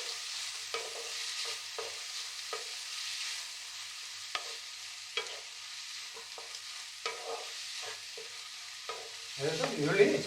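Finely chopped onions sizzling in hot oil in a kadai, with the scrape of a spatula stirring them every second or so.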